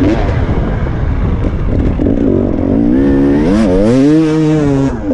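Dirt bike engine revving up and down over a rough low rumble, the revs climbing and holding high about three to four seconds in, then dropping off abruptly near the end.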